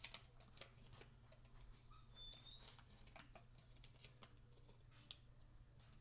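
Near silence: faint, scattered rustles and light clicks of a folded paper boat being handled and pressed, over a low steady hum.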